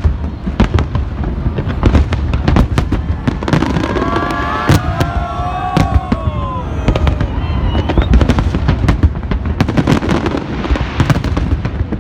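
Fireworks display: a dense run of sharp bangs and crackles over a constant low rumble of explosions. Midway through, a few falling tones stand out briefly above the bangs.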